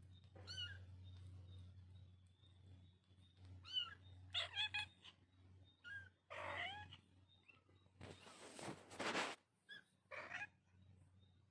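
Kittens mewing in short, high, thin cries that rise and fall in pitch, scattered irregularly. About eight seconds in comes a noisy burst lasting about a second, and a low steady hum runs underneath.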